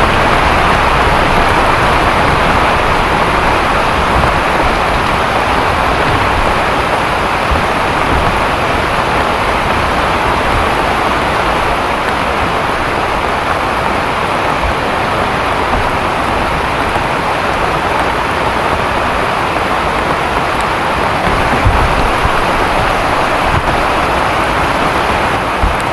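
Heavy rain falling steadily, a loud even hiss of downpour with a low rumble underneath.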